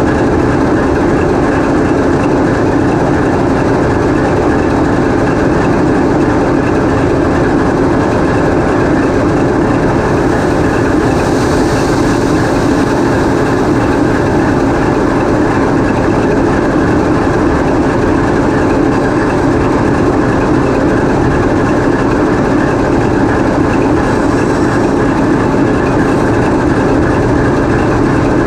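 TEP70 locomotive's sixteen-cylinder diesel engine running steadily, loud and close inside the engine compartment.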